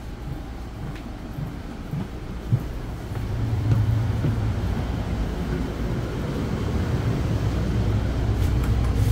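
Steady low hum inside a Bombardier MultiLevel commuter rail coach standing in the station, growing louder about three seconds in. There is one sharp knock a little before that.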